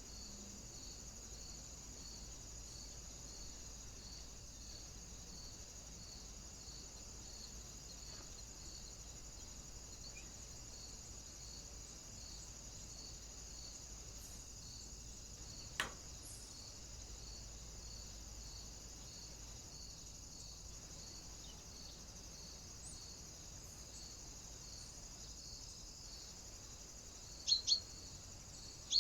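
Steady faint high-pitched hiss with a soft, regular pulse, one sharp click about halfway through, and a couple of short bird chirps near the end.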